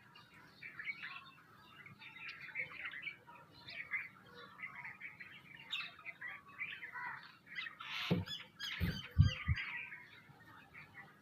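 Many small birds chirping and twittering together. Near the end there are a few low thumps.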